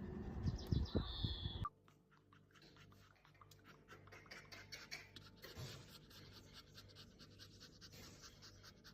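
A dog's short vocal sounds, which cut off abruptly a little under two seconds in. They are followed by a faint, rapid scratching of many small quick strokes.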